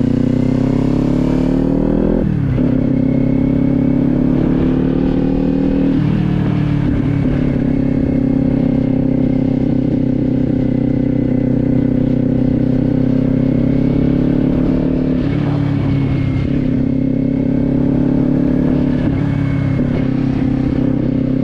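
Kawasaki Z400's parallel-twin engine under way: its pitch rises for about two seconds, drops sharply as it shifts up, steps down again around six seconds in, then holds a steady cruise with small dips.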